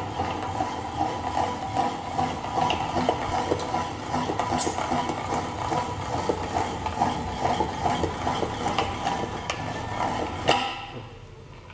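Hand-cranked manual meat grinder being worked: a continuous metal rattle with many small clicks, which stops with a sharp knock about ten and a half seconds in.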